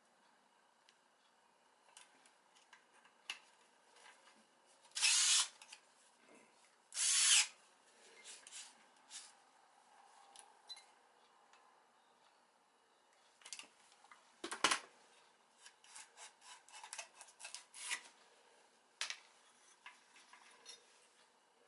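Hand work with tools on small engine parts: scattered clicks and taps, with two short loud noisy bursts about five and seven seconds in, a single heavier knock about two-thirds of the way through, and a quick run of clicks after it.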